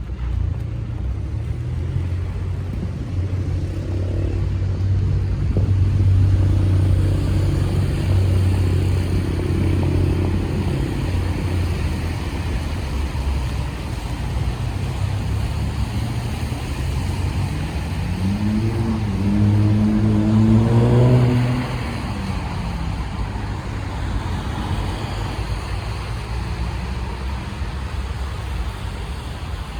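Motor traffic on a wet city street in the rain. An engine hums steadily for the first dozen seconds. About 18 seconds in a vehicle accelerates with rising pitch, loudest around 21 seconds, over a steady hiss.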